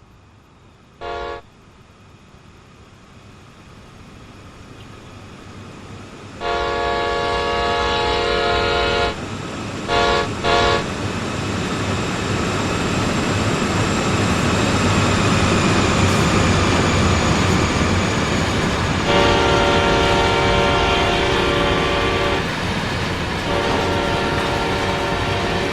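CSX AC6000CW diesel-electric locomotive approaching and sounding its multi-note horn: a brief toot about a second in, a long blast, two short toots, then two more long blasts near the end. Under the horn the rumble of the locomotive and train builds steadily as it draws closer.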